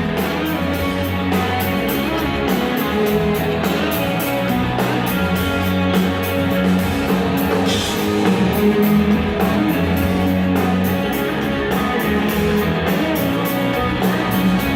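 Live rock band playing an instrumental passage: electric guitar and bass over a drum kit keeping a steady beat.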